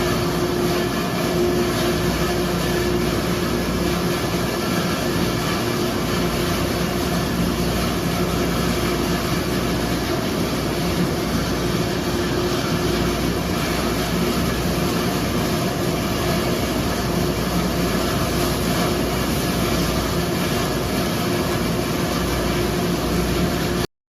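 A train running: a steady rumble and hiss with a constant hum. It stays unchanged throughout and cuts off suddenly just before the end.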